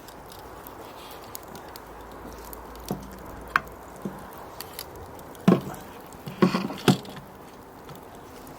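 Wood fire burning with a steady low hiss and scattered sharp crackles, with a few louder knocks near the middle.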